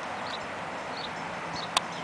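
Faint high chirps repeating about every half second over a steady outdoor background hiss, with one sharp click about three quarters of the way through.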